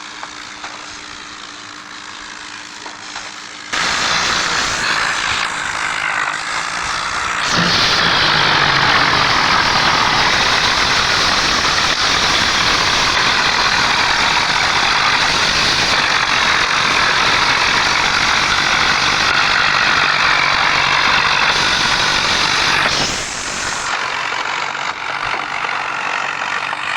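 Heavy diesel engines of a Mahindra tractor and a bulldozer running hard in a tractor tug of war. The engine noise steps up about four seconds in and again a few seconds later, stays loud and dense, and drops back near the end.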